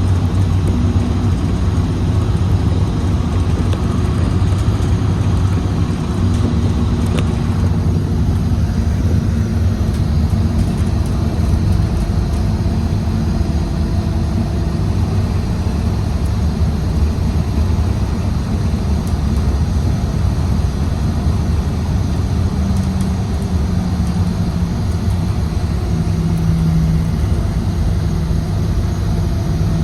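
Scania Citywide LE city bus running on compressed natural gas, its engine and drivetrain giving a steady low drone, with engine tones shifting in pitch now and then as it drives along.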